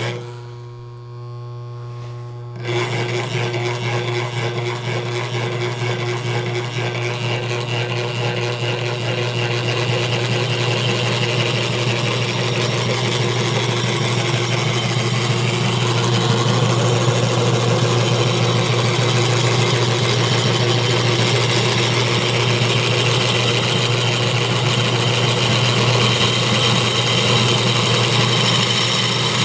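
Homemade V-shaped electromagnetic motor running with a steady mechanical whir and rattle. It starts about two and a half seconds in, over a low hum, and gradually gets louder.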